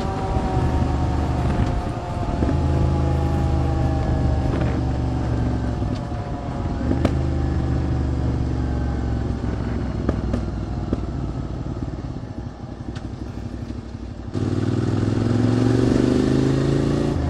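A QJ Motors SVT650X V-twin on the move, running through an Arrow Racetech exhaust on a remapped ECU. The engine note falls as the bike slows at first, then runs fairly steady and eases off. About fourteen seconds in, the throttle opens sharply and the note jumps louder and rises in pitch.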